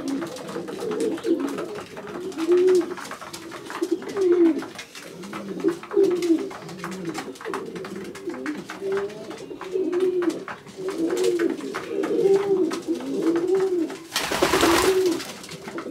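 Widowhood racing pigeon cocks cooing in the loft, several birds overlapping in repeated rising-and-falling coos. A brief rushing noise sounds near the end.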